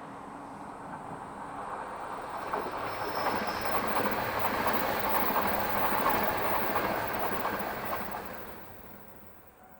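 Yamagata Shinkansen train passing by: the rush of its wheels on the rails builds up, is loudest about halfway, then fades away near the end.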